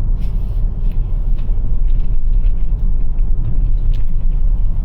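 Steady low rumble inside the cabin of a Toyota RAV4 Prime on Blizzak snow tires rolling slowly through deep snow, with a few faint light clicks.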